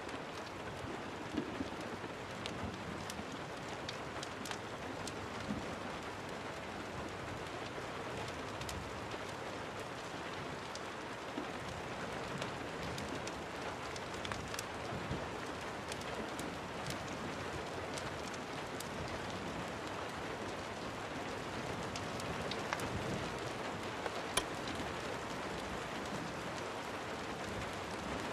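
Steady rain falling, with scattered sharp pops and crackles of a wood fire in a fireplace.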